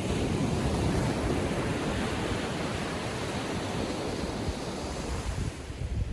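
Surf on a sandy beach in calm seas: a small wave breaks and its wash rushes up the shore as a steady hiss, slowly easing over several seconds.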